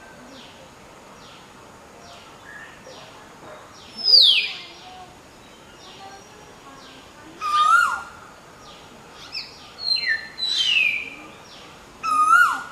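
Hill myna and Asian koel calling. Loud whistled calls come a few seconds apart: high whistles that slide down in pitch, and lower rising calls that drop off sharply. Faint short notes repeat steadily in the background.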